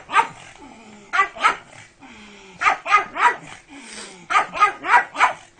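A dog barking in short runs: about ten sharp barks, grouped in ones, twos, threes and fours.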